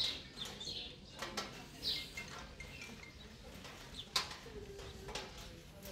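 Small birds chirping in short, scattered calls, with a few sharp clicks, the loudest a little after four seconds in.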